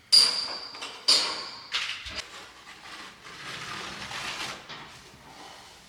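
Two sharp metallic clanks, one at the start and one about a second later, each ringing briefly. They are followed by softer scraping and rubbing that fades away.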